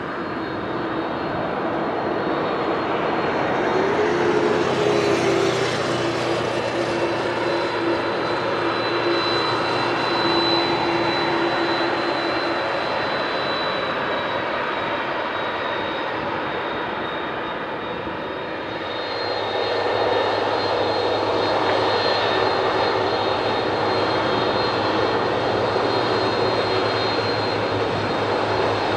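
Airbus A300-600ST Beluga's twin turbofan jet engines running, a broad jet noise with a steady high fan whine; the sound eases slightly and then grows louder again about two-thirds of the way in.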